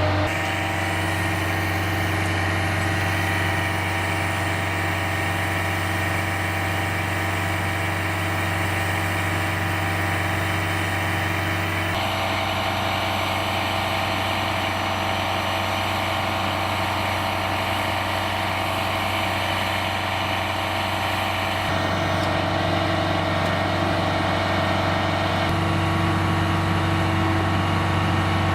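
Heavy military truck's diesel engine idling steadily with a deep hum. The tone of the engine noise changes abruptly three times.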